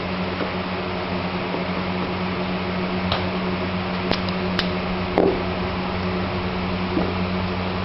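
Steady hiss with a constant low hum, broken by about five light clicks and a slightly heavier knock near the middle, typical of small objects being handled on a work surface.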